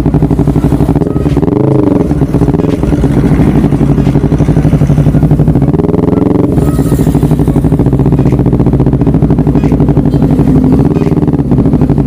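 Honda CBR250RR parallel-twin engine with an aftermarket DST exhaust idling steadily. One short throttle blip about a second and a half in makes the pitch rise and fall back.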